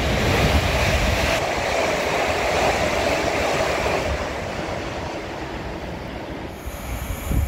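Two coupled Class 360 electric multiple units running through at speed on the far line, the rush of wheels on rail fading away as the train leaves.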